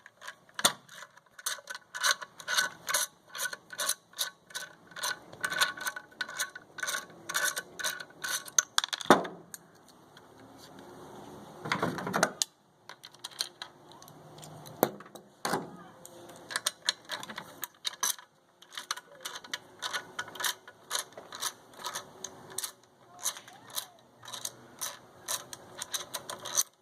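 Hand ratchet wrench clicking in quick runs as it backs the muffler bolts out of a small inverter generator, with a few heavier metal clunks.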